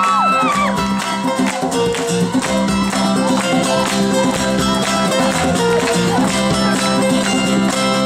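Live band playing an instrumental passage: acoustic guitar strumming over steady held bass notes. Audience shrieks trail off in the first half-second.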